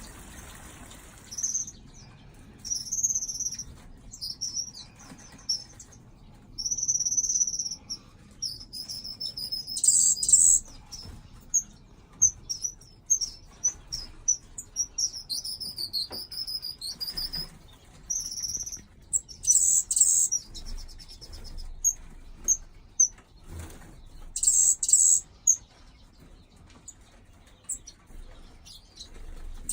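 Small aviary finches and waxbills chirping with many short, high-pitched calls and a few louder buzzy bursts, with wings fluttering.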